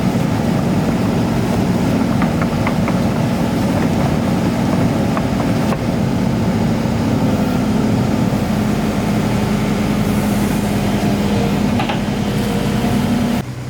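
Excavator's diesel engine running steadily at high revs, then dropping to idle shortly before the end.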